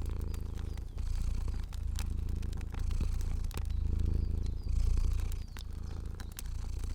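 A cat purring steadily, the purr swelling and easing about once a second with its breathing, over a crackling fire with scattered sharp pops.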